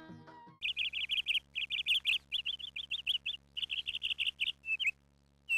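Small bird chirping: a quick run of short, high chirps, pausing briefly near the end.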